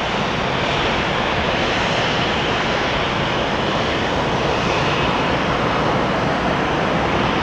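Airbus A220-300 jet airliner's engines under power for departure, a steady, even rush of jet noise with no change in level.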